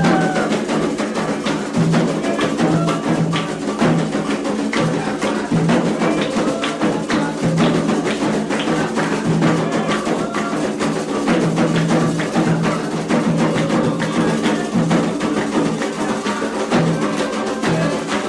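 Candomblé ritual drumming: atabaque hand drums played in a steady, fast rhythm with a struck bell keeping time over them.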